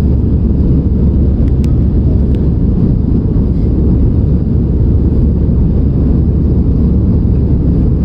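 Steady low rumble of engine and airflow noise heard inside an airliner cabin in flight, with a couple of faint ticks about two seconds in.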